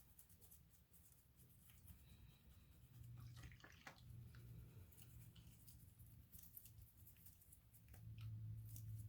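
Near silence with faint, scattered scratching and clicking from a pocket knife being brushed and handled at a sink, over a low hum.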